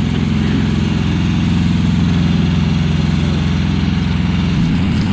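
Tractor engine running steadily at low speed while towing, a constant low drone. Near the end it turns rougher and less even.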